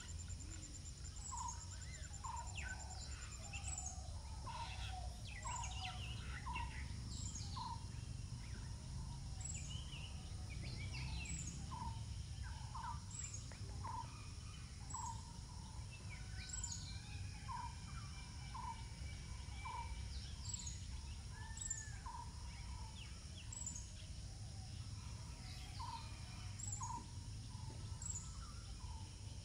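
Birds calling: one bird repeats a short note about once a second, with other scattered chirps, over a steady low rumble.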